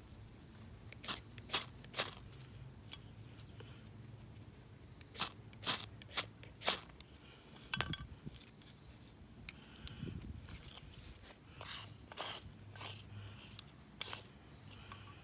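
Dry wood giving sharp, irregular cracks and crunches, several in quick succession about a second in and again around five to seven seconds in.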